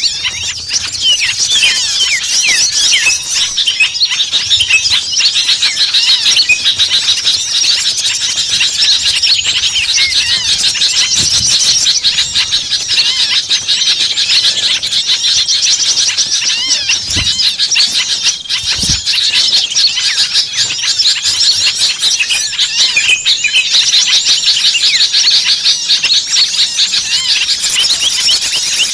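A dense, noisy chorus of many small songbirds chirping and trilling over one another without pause, a bird-luring recording of agitated small birds.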